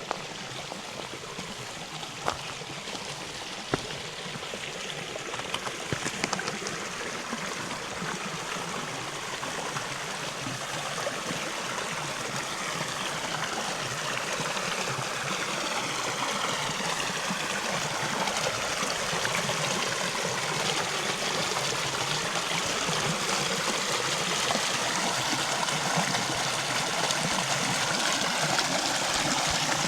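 River water running over stones, growing steadily louder as it draws nearer, with a few sharp clicks near the start.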